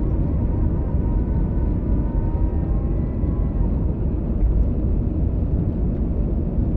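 Steady cabin rumble of an Airbus A320 in motion, the engines and airflow heard from inside the cabin at a window seat, with no break in the noise.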